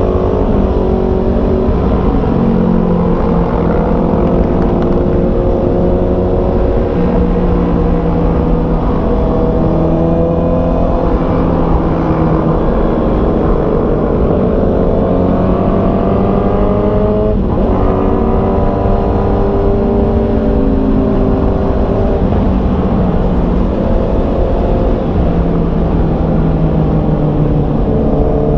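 Honda CB650R's inline-four engine under way, its pitch climbing slowly through long stretches of acceleration, with a quick drop in pitch about seventeen seconds in, as at a gear change.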